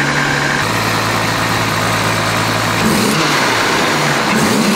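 Turbocharged 1JZ straight-six in a Toyota JZX100 Cresta idling steadily just after starting, then revved in two short throttle blips near the end, the aftermarket blow-off valve venting as the throttle closes.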